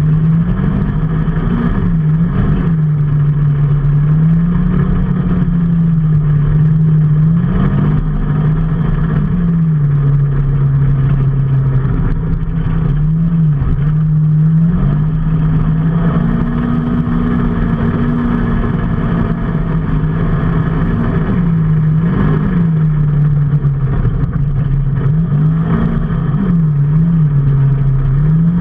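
A vehicle engine running under way, its note rising and falling several times as the revs change, over a steady rushing noise.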